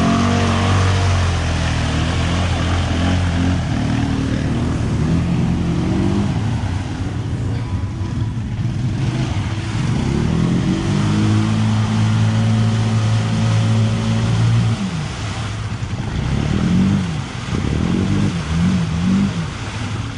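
ATV engine revving under load as it works through mud. The revs rise and fall, hold steady for about four seconds past the middle, then are blipped up and down several times near the end.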